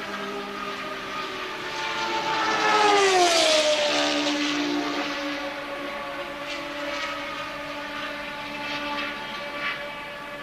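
Formula One race car passing at speed, its engine note loudest about three seconds in and dropping sharply in pitch as it goes by; other race engines keep sounding afterwards.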